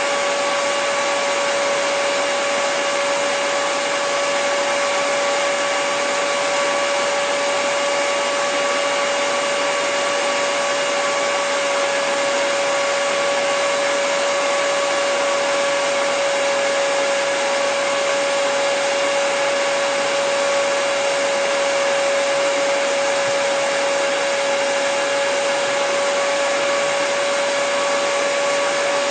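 Electric hair dryer running continuously: an even, unchanging rush of air with a steady motor whine.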